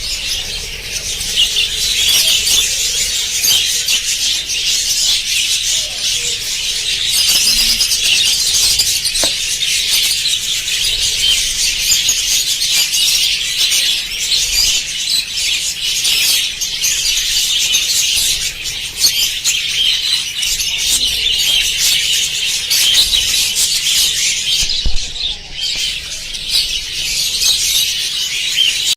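A flock of budgerigars chattering continuously, a dense tangle of short high chirps and twitters.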